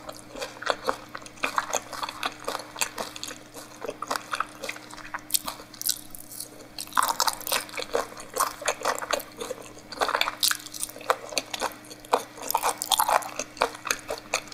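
Close-miked chewing of raw fish sashimi: wet mouth clicks and smacks in irregular runs, with the busiest stretches in the second half.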